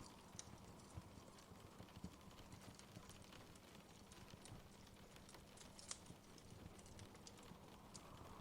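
Faint crackling of a wood fire: irregular small pops and snaps, a few sharper ones, over a low steady hiss.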